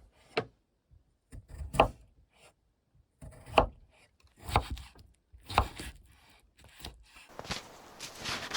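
Chopping blows on wood, a sharp knock roughly once a second. Near the end they give way to a continuous rustling, scraping noise.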